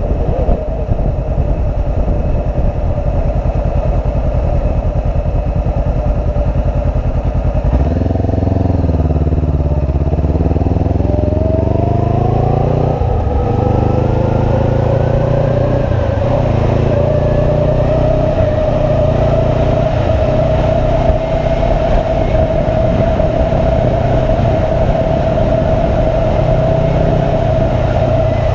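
Motorcycle engine running while riding. About eight seconds in the engine note drops, then climbs as the bike accelerates, and settles into a steady cruise.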